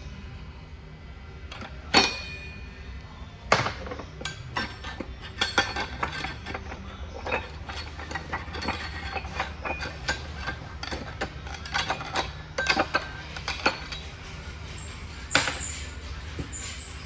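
Steel transmission parts clinking and knocking together as they are handled and fitted during assembly. There are two sharp, ringing metal strikes about two and three and a half seconds in, then a long run of lighter clinks and taps and one more strike near the end, over a steady low hum.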